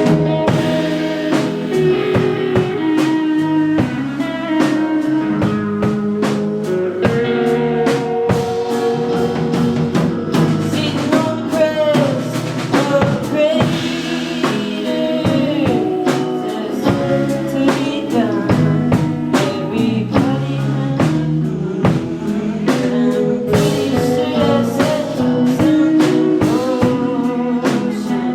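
Live band playing a song: a drum kit keeps a steady beat under amplified guitar and bass, with a voice singing over them at times.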